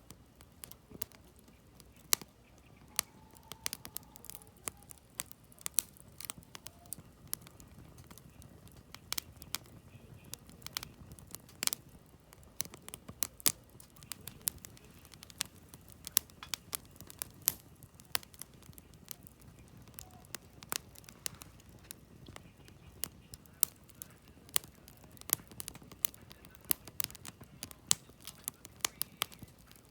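Wood campfire crackling: burning firewood gives off irregular sharp pops and snaps, several a second, over a soft low hiss of flame.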